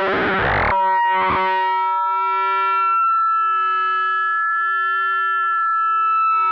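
K-ACCUMULATOR synthesizer oscillator module sounding on its own as a sustained electronic tone. About a second in, a thick, buzzy sound cuts abruptly to a thinner tone of a few separate, unevenly spaced pitches that swells and fades slowly.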